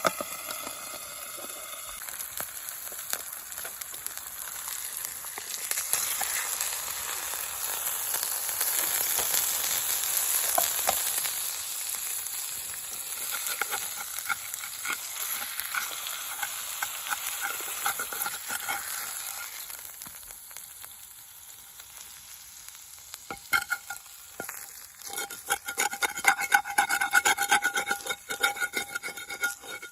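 Steak sizzling in a frying pan over a small camp stove, a steady hiss with some stirring. Near the end this gives way to a quick, rhythmic scraping with a metallic ring, a spatula working against the pan.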